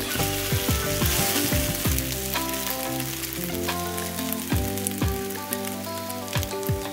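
French toast sizzling as it fries in butter in a skillet on medium-high heat, with the hiss strongest in the first couple of seconds. Background music with a deep, falling bass beat plays underneath.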